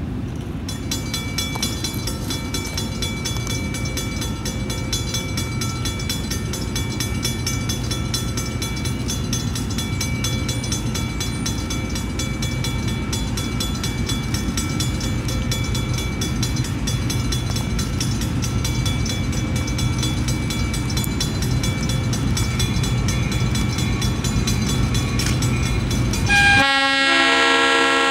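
Diesel freight locomotive approaching, its rumble growing slowly louder. Near the end its air horn starts blowing loudly, a chord of several notes at once.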